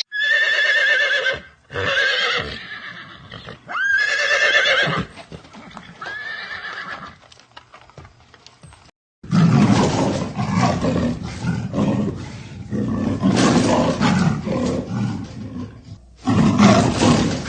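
Horse neighing: four whinnying calls with a quavering pitch over the first nine seconds. After a short break comes a rough, noisy animal sound lasting most of the rest.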